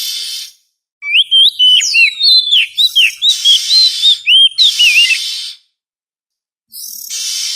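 Oriental magpie-robin (kacer) song used as a lure call: a harsh rasping note, then a long phrase of clear whistled notes sliding up and down mixed with more rasps, and a last rasp near the end, with short pauses between.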